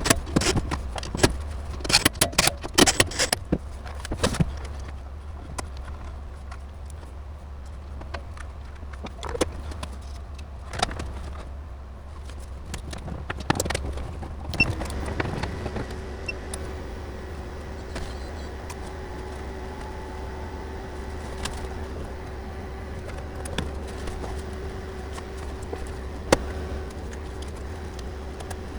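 Clicks and metallic clatter of hardware being handled, loudest in the first few seconds, over a steady low hum; about halfway through a steady machine hum with a clear tone starts and keeps running.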